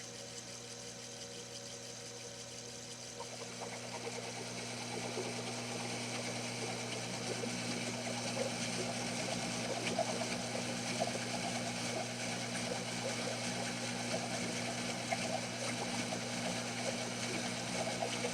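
Small metal lathe running with a steady motor hum; about four seconds in, a louder, scratchy cutting noise rises over it and carries on as the tool takes a cut.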